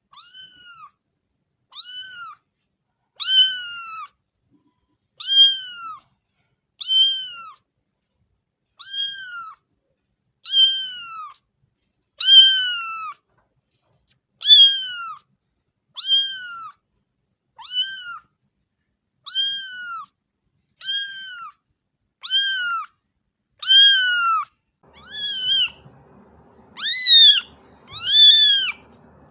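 A cat meowing over and over, nearly twenty short rising-then-falling meows about a second and a half apart. The last few are louder, with a faint background hiss behind them.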